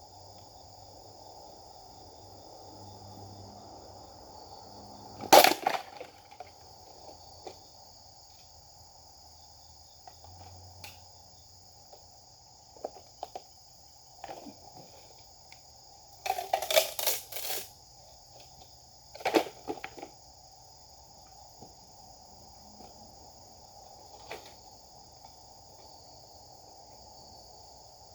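Japanese sword (katana) swung in practice cuts: several short, sharp swishes, the loudest about five seconds in and a quick run of them around sixteen seconds in, with a few lighter ones later. A steady high-pitched drone runs underneath.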